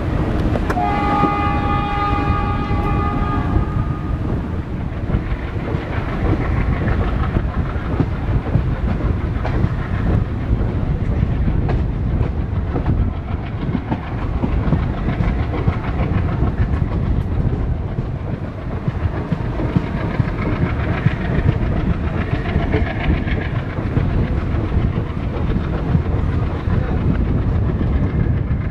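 A diesel locomotive horn sounds for about three seconds near the start. After it comes the steady rumble of a moving passenger train hauled by twin WDM3A diesel locomotives working under load, with wheels clacking over the rail joints.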